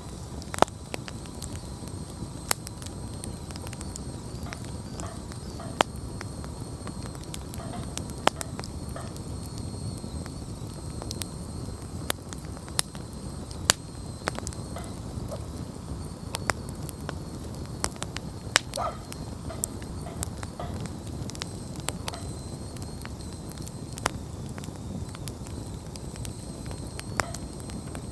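Wood campfire burning: irregular sharp crackles and pops, roughly one every second or two, over the steady low rush of the flames.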